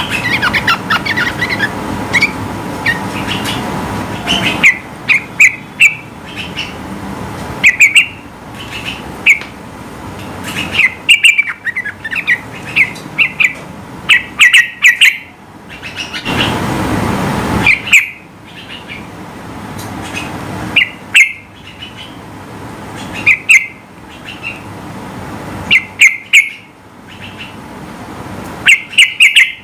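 Sooty-headed bulbul singing loudly in repeated clusters of short, sharp notes with pauses between them. A brief rushing noise rises under the song around the middle.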